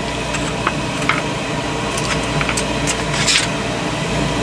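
Steady fan-like hum of an air-conditioning unit, with a handful of short clicks and scrapes of metal hand tools working on the exhaust-hose clamps.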